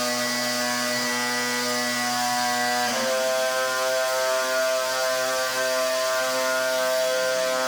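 Pressure washer running, a steady motor drone over the hiss of the water jet. The drone changes pitch about three seconds in.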